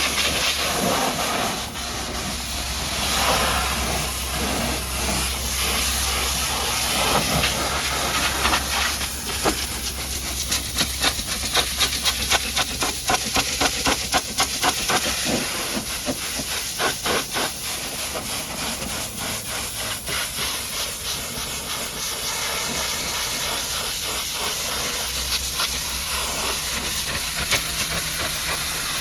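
High-pressure water jet hissing as it blasts mud off a truck. In the middle the spray breaks into a fast, even run of pulses as it sweeps across the surface.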